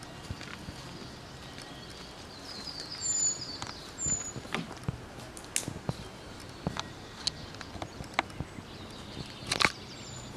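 Footsteps on dry forest ground, irregular light snaps and clicks, with a few short high bird chirps about three and four seconds in.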